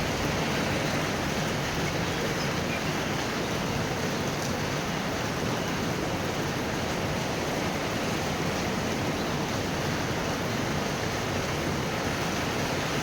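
Thunderstorm rain falling steadily, an even hiss with no thunder claps.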